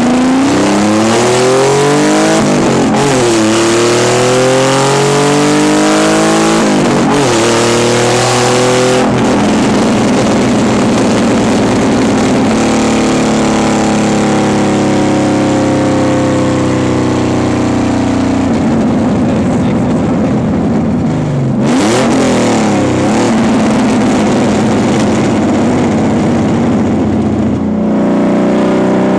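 Naturally aspirated Nissan 300ZX (Z32) 3.0-litre V6 running with no exhaust, loud: it pulls hard through the gears, its pitch rising and breaking at each shift, then settles into a steady drone at cruise. It drops briefly and picks up again after about twenty seconds, and starts another rising pull near the end.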